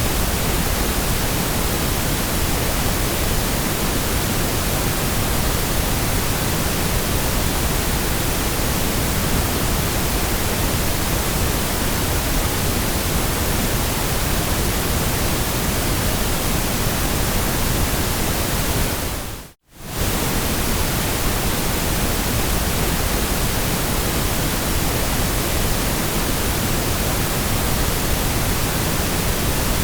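Steady white noise: a constant, even hiss across all pitches. About two-thirds of the way through it dips briefly to near silence and comes straight back at the same level.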